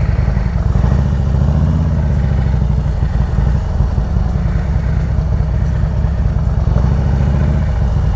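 Harley-Davidson Road Glide V-twin engine running at low speed as the bike rolls along, a steady low rumble whose pitch rises and eases a little as the throttle changes.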